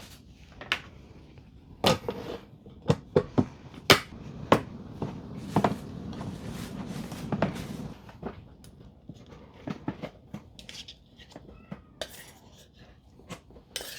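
Kitchen handling sounds: scattered clicks, knocks and light clinks of dishes, containers and utensils being moved and set down, with a rustling stretch in the middle.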